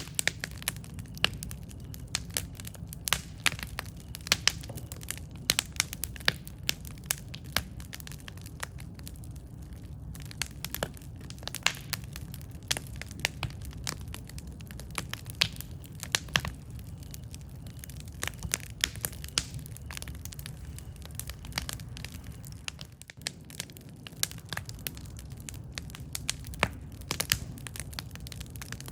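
Wood campfire crackling, with many irregular sharp pops and snaps over a steady low noise of the burning fire.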